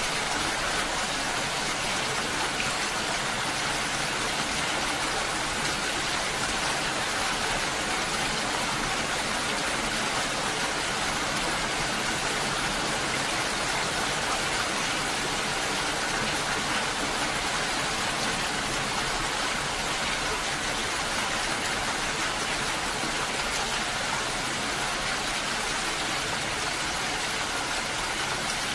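Steady rain, an even hiss that doesn't change, with no single drops or thunder standing out.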